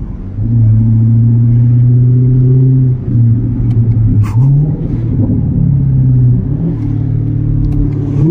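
C7 Corvette Z51's 6.2-litre V8 through a muffler-delete exhaust, running loud and steady, then downshifting: at each shift the level dips briefly and the engine pitch rises, a few times over.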